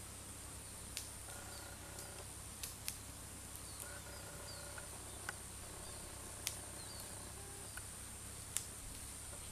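Faint outdoor rural ambience: a steady high-pitched hum with brief bird chirps, a low background drone and several sharp clicks scattered through.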